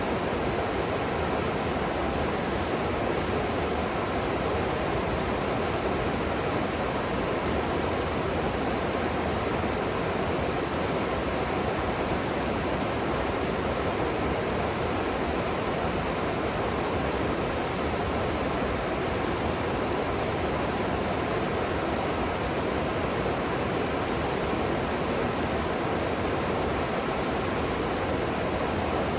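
River water rushing below, a steady, unbroken rush that does not rise or fall.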